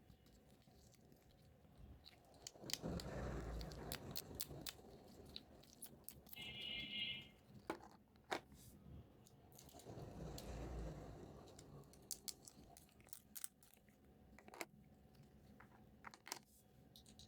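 Close-up handling of toy packaging and small plastic toy pieces: scattered clicks and taps, with two longer stretches of rustling and tearing. A brief high buzzing tone sounds about six and a half seconds in.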